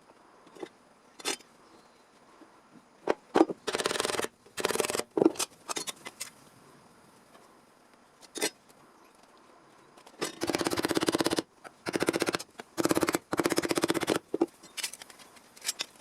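Sheet steel for a repair panel being worked with a metal-cutting or filing tool: scattered sharp clicks, then two runs of rasping strokes about a second each, several in a row.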